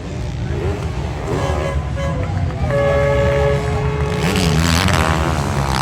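450cc four-stroke motocross bikes racing, engines revving up and down, with a low rumble throughout. A steady held tone sounds for about a second near the middle.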